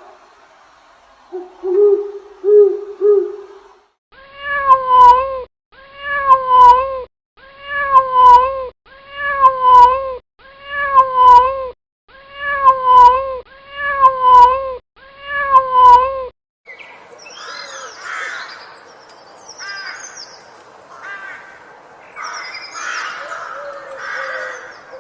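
An owl hooting, a short series about a second in, followed by a domestic cat meowing eight times at an even pace. In the last third, higher, chirping animal calls take over.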